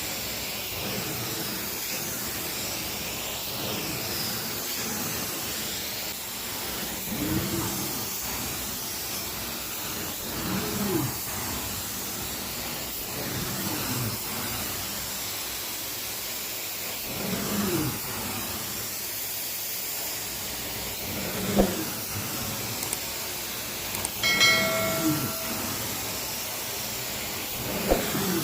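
Carpet-cleaning machine running with a steady hiss of suction through the carpet, swelling and falling briefly every few seconds as strokes are made. A brief high tone sounds near the end.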